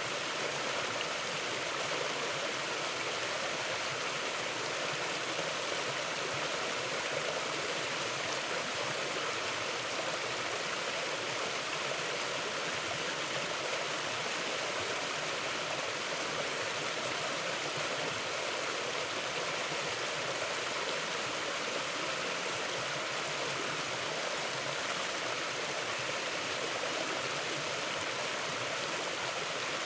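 A mountain stream flowing over rocks, a steady, even rush of water with no change in level.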